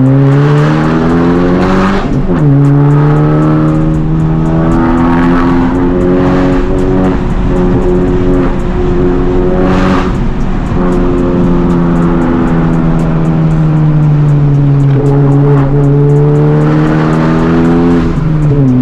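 Honda Civic Type R's turbocharged four-cylinder, with catless downpipe and resonator delete, pulling hard under load. The engine note climbs and eases off with the throttle, with a sudden drop in pitch like an upshift about two seconds in, and again near the end.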